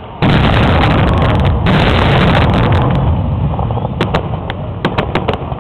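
Fireworks going off in a dense barrage: a sudden loud burst of bangs and rumble a fraction of a second in, thinning after about three seconds into scattered sharp crackles and pops.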